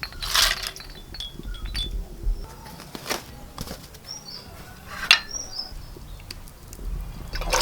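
Scattered clinks and knocks of kitchen utensils and dishes, the sharpest about five seconds in, with a couple of short, high bird chirps.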